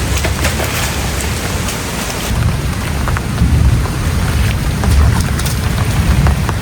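Heavy rain pouring down, a dense hiss of drops with many small individual hits, over a continuous low rumble that swells and eases.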